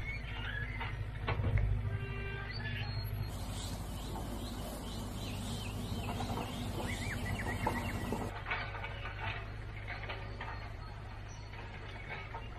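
Birds chirping and calling over a low, steady outdoor background hum, busiest from about three to eight seconds in, with a few faint clicks near the start.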